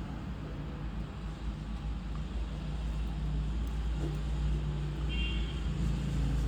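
Steady low rumble of a motor or road traffic, with a brief high tone about five seconds in.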